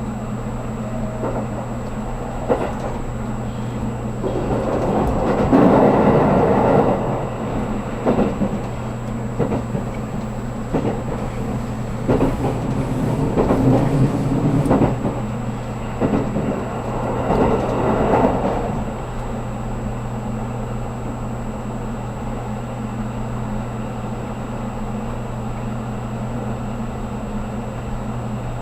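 Running noise heard from inside a 783-series limited express car: a steady low hum with wheel-on-rail rumble that swells several times during the first two-thirds, then settles back.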